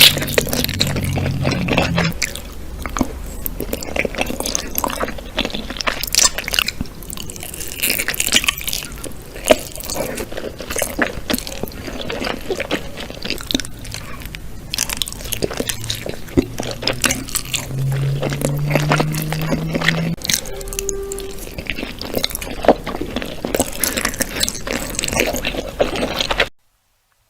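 Close-miked eating sounds: wet chewing and squishing of food with many small crunches and clicks. It cuts off suddenly near the end.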